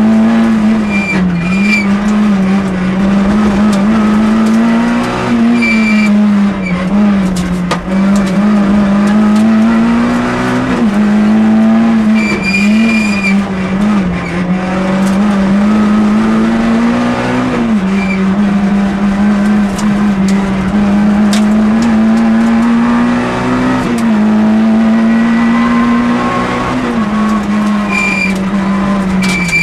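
Citroën Saxo rally car's four-cylinder engine under hard stage driving, heard from inside the cabin. Its note climbs and falls back every few seconds as the driver shifts gears and lifts for corners, with brief high squeals now and then.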